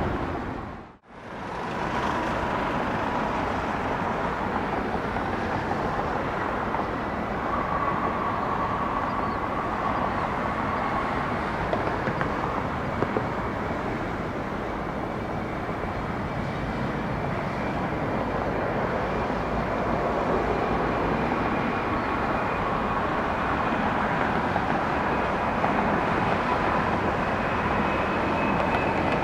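Steady rumble of distant jet airliner engines running at the airport, with a faint high whine that slowly rises in pitch toward the end. The sound drops out briefly about a second in.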